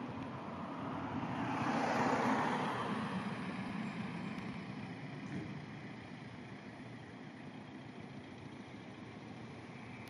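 A vehicle passing by: a broad rushing noise that swells to a peak about two seconds in and fades over the next few seconds, over a steady background hiss.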